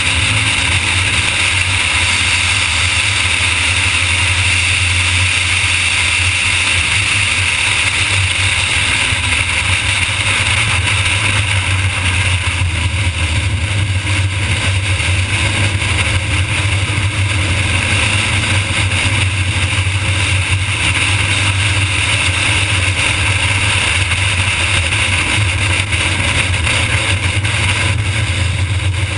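Pontiac GTO's V8 engine running hard at track speed with its stock powertrain, a loud, steady drone mixed with wind and tyre noise, heard from inside the cabin.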